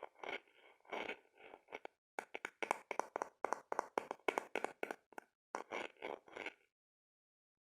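ASMR knocking and scratching on a hard object: a few irregular scratchy strokes, then a quick run of sharp taps at several a second, stopping shortly before the end.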